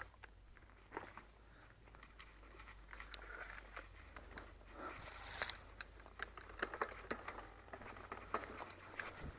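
Bicycle moving along a muddy forest trail: irregular sharp clicks and crackles of tyres and bike parts over twigs and leaf litter, busiest in the middle.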